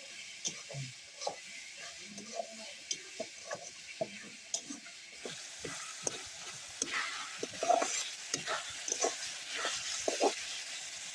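Curry masala of onion, ginger, garlic and tomato frying in oil in a pan while a spatula stirs it, with irregular scraping strokes against the pan. The sizzle grows louder about halfway through.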